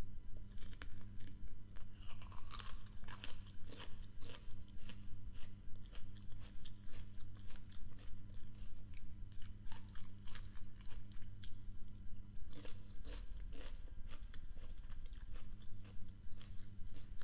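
A person biting and chewing crisp green apple pieces, crunching in a steady rhythm of about two chews a second. Sharper, louder crunches come in clusters about two seconds in, near ten seconds and again around thirteen seconds.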